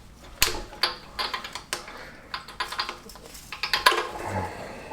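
Irregular metallic clinks and clicks of hand tools being handled: a spark plug socket, adapter and torque wrench being moved and fitted.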